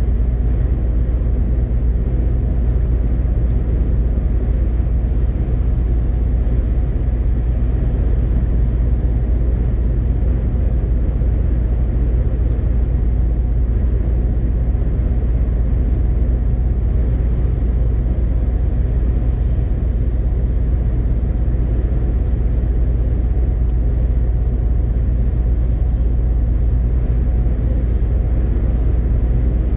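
MAN TGX 18.520 truck under way: a steady, even low rumble of its diesel engine and road noise, with no change in pitch or level.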